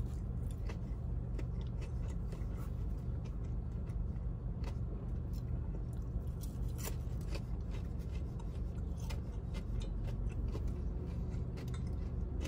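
Close-up chewing of crispy fried chicken tenders: scattered crunches and mouth clicks over a steady low hum.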